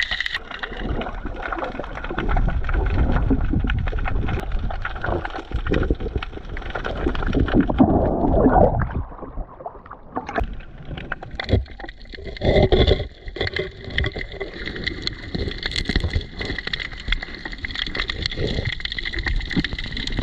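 Water sloshing and gurgling around a diver's camera, in irregular swells, with a steady high whine underneath.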